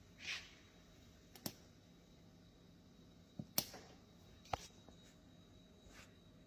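A few faint, sharp taps and clicks, spaced a second or so apart, from a finger tapping a refrigerator's touch screen to open a message.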